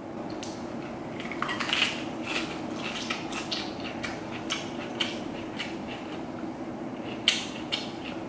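Close-up crunching and chewing of a crisp lettuce wrap filled with minced meat: a string of sharp crunches from the fresh lettuce leaf as it is bitten and chewed, the loudest near the end, over a steady low hum.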